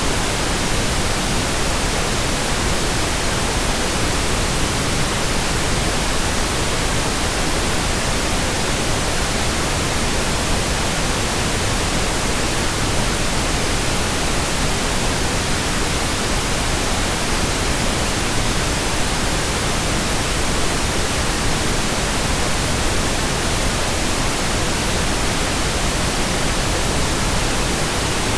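Steady, unbroken white noise, an even hiss spread across the whole range from low to high, with no change in level.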